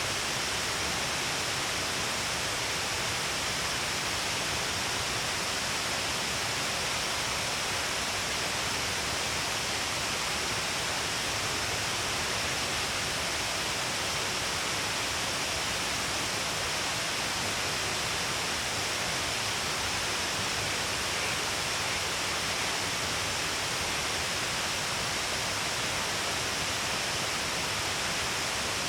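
Shiraito Falls: water pouring down the length of a cliff face in many falling streams, making a steady, unbroken rushing hiss with no pauses or changes.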